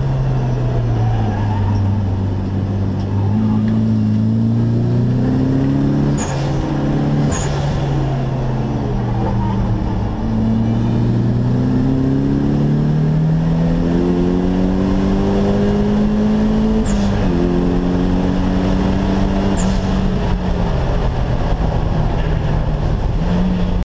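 Nissan SR20DET turbocharged four-cylinder engine heard from inside a stripped race-car cabin, driven hard around a track. Its pitch rises and falls as it accelerates and eases off, with a sudden drop in pitch at a gear change. Four short sharp clicks sound over it.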